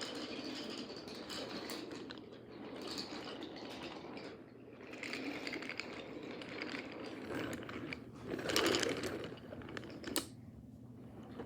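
Toy trains rolling along wooden track, a steady mechanical rattling and clatter, louder for about a second near the end, with a sharp click just after.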